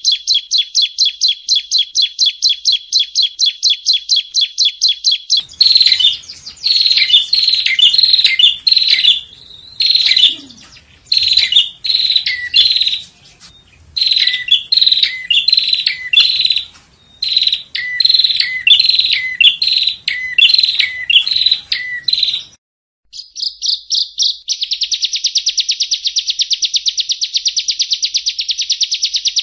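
Yellow-bellied prinia (prenjak rowo) song. It opens with a rapid, even trill of about seven notes a second. From about five seconds in comes a long run of chirping phrases with downslurred ends. After a brief break near the end it changes to a very fast, buzzy trill.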